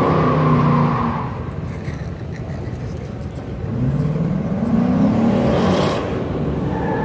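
Muscle car engine running, easing off after about a second, then accelerating with a rising pitch from about three and a half seconds in.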